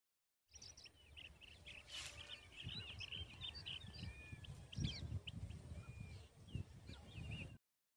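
Birds calling outdoors: many short, quick chirps overlapping, with a low gusting rumble underneath. Starts about half a second in and cuts off suddenly near the end.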